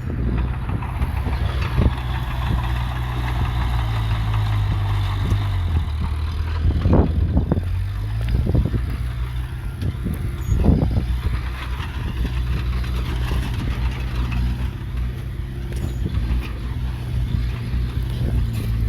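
Heavy earthmoving machine's diesel engine running steadily, its pitch dropping about five seconds in, with a few short knocks around the middle.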